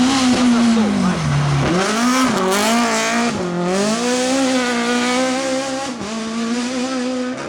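Rally car engine at high revs on a special stage. The revs drop briefly about a second and a half in and again around three and a half seconds, then climb back and hold high.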